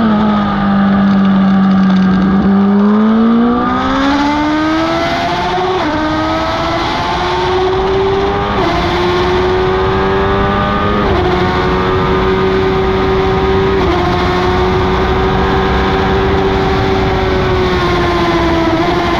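Superbike engine heard onboard at speed. Its note sinks, then climbs hard about two and a half seconds in, then holds high with a short step at each gear change, and eases off near the end. Loud wind rush runs under the engine throughout.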